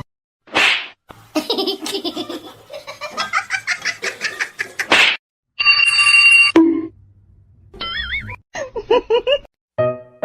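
Edited comedy soundtrack: bursts of laughter and novelty sound effects, including a steady chime and wavering cartoon-like tones, cut apart by sudden silences, with music coming in near the end.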